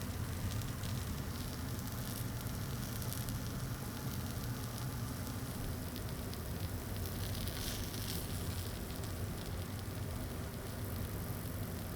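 Charcoal grilling in a small fire grill, with faint crackles and sizzling over a steady low hum.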